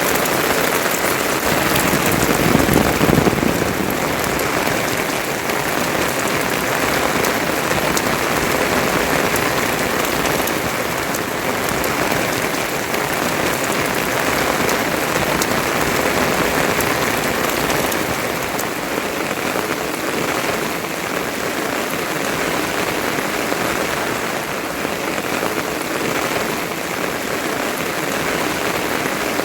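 Steady rain falling, a continuous even hiss of drops with a slight swell about two to three seconds in.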